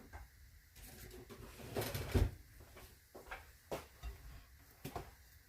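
Kitchen drawer being opened and utensils handled: a cluster of knocks and rattles about two seconds in, then a few single clicks.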